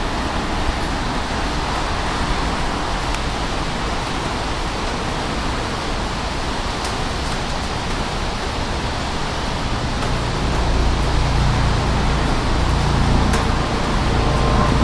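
Steady hiss of rain mixed with a passing NJ Transit electric train; a low rumble grows louder about ten seconds in.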